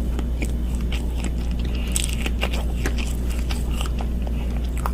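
Close-up eating sounds of someone chewing cake: many small, irregular wet clicks and smacks over a steady low hum.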